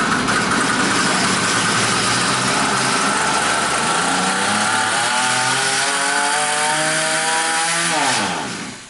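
Cheap 50cc two-stroke engine running loud and fast after a pull-start, then its pitch falls and it dies on its own about eight seconds in.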